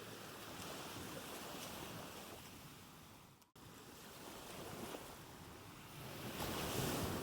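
Recorded ocean waves washing in and receding, with a brief cut-out about halfway through and the largest wash near the end.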